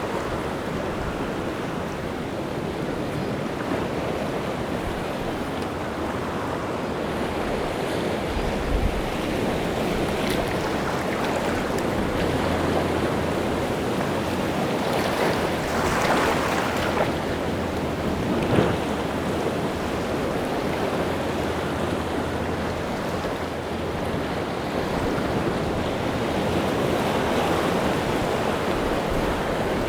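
Rough sea surf breaking and washing on the shore, with wind. The waves swell in surges, the biggest breaking about halfway through with a sharp slap just after it.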